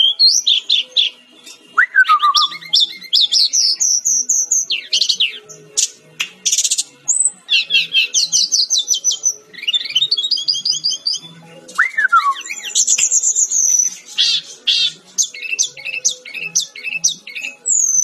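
Brown-chested jungle flycatcher singing a fast, varied song of rapid trills and chirps, with sweeping whistles that fall steeply, two of them about two seconds and twelve seconds in.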